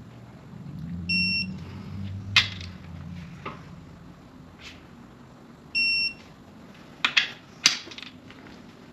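Digital torque wrench beeping twice, a short steady electronic tone each time the bolt reaches the set 175 foot-pounds. Sharp metal clinks and clanks of tools on the engine block come between and after the beeps.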